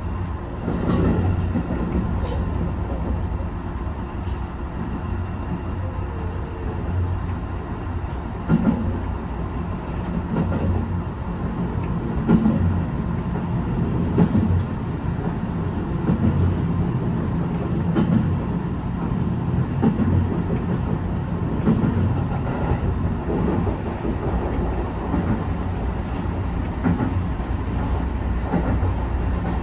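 HB-E210 series hybrid train running along the line, heard from inside the leading car: a steady low rumble with irregular knocks as the wheels pass over rail joints, and a few sharp clicks early on.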